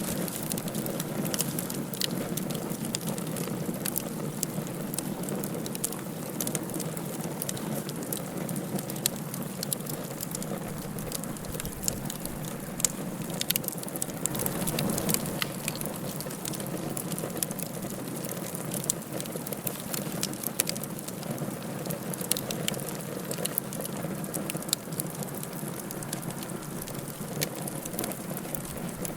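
Wood fire burning in a fireplace, crackling: a steady hiss broken by many small sharp pops.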